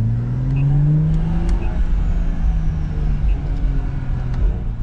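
BMW M340i's turbocharged B58 inline-six exhaust as the car accelerates gently: the engine note rises for about the first second and a half, holds steady, then eases off near the end. It sits over steady wind and road rumble.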